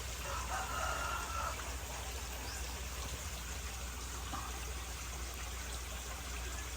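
Water trickling and running steadily as a pump fills a pond up to its overflow pipe, with a low steady hum underneath.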